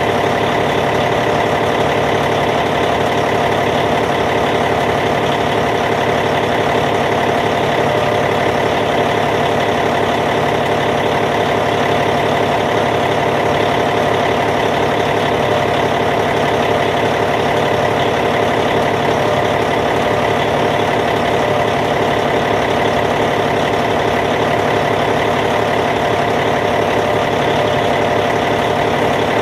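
Caterpillar C15 diesel engine of a Cat D8T bulldozer idling steadily, an even rapid diesel pulse with no change in speed.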